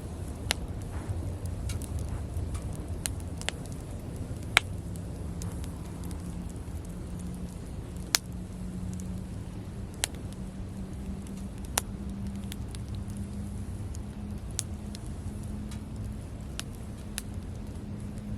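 Wood campfire burning, with scattered sharp crackling pops every second or so over a low rumble. A faint, steady low hum comes in about five seconds in.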